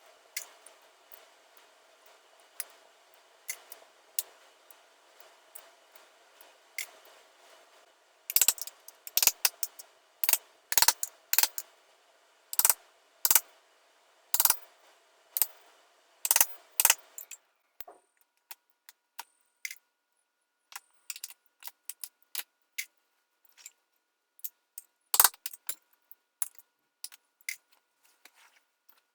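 Small hammer tapping a tack puller under upholstery staples, with sharp metallic clicks, to lift the staples out of a recliner's back frame. A run of loud, fairly regular taps comes in the middle, followed by sparser, quieter clicks as the staples are pried loose.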